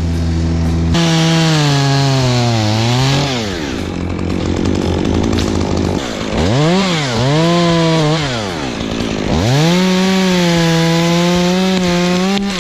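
Two-stroke chainsaw at full throttle cutting wood: its pitch sags as the chain bogs down in the cut, then rises again. In the middle it is revved up and down several times, then it holds at high speed steadily until it drops back near the end.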